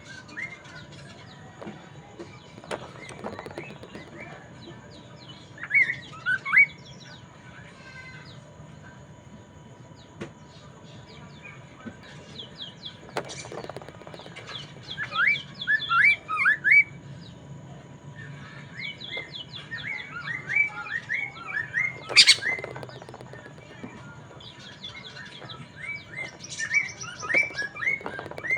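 A poksay mandarin (a laughingthrush) singing in bursts of quick, chirped notes, phrase after phrase with short pauses between. A sharp click sounds about 22 seconds in.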